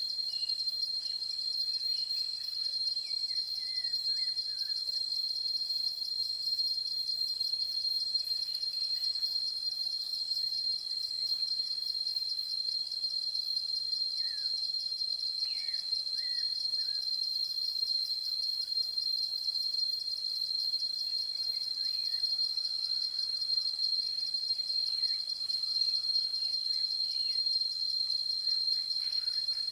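A continuous, high-pitched insect chorus trilling steadily, with faint, brief bird chirps a few times.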